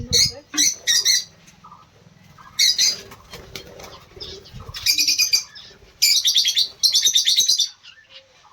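Small aviary birds giving harsh, high chattering calls in repeated bursts, the longest about a second and a half near the end, with wings flapping amid agitated movement in the cage.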